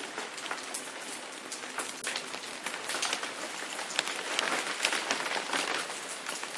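Rain falling steadily: a dense hiss of many drops, with sharper individual hits standing out here and there.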